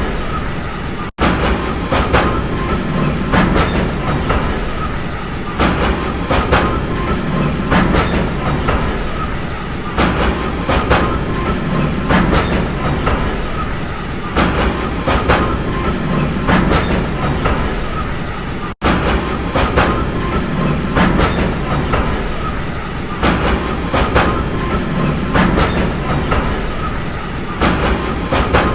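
Train running along the track, a steady rumble with the rhythmic clickety-clack of wheels passing over rail joints. The sound cuts out for an instant twice, about a second in and again after about nineteen seconds.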